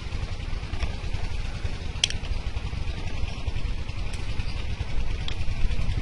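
A steady low rumble with a few faint, sharp clicks spread through it.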